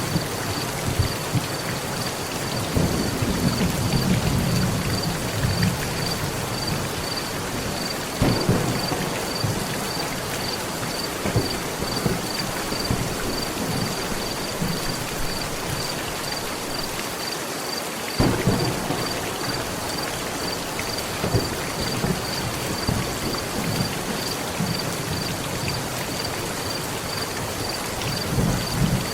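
Heavy rain falling steadily on a metal roof, with thunder rolling low throughout; sharp claps break in about eight seconds and eighteen seconds in, each trailing off into a rumble.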